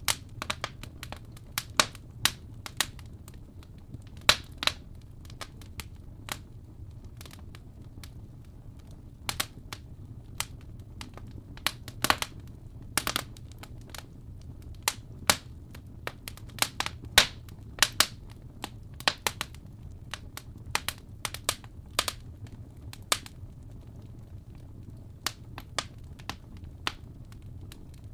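Fire burning in a fireplace, crackling and popping: irregular sharp pops, sometimes several in quick succession, over a low steady rumble.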